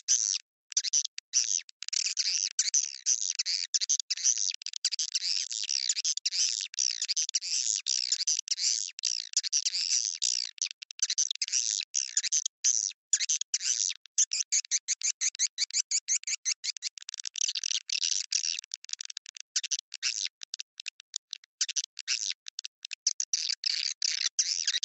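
Swiftlet lure call track: dense, overlapping high chirps and twitters of edible-nest swiftlets, broken by many short gaps. It is played to attract swiftlets into a bird house.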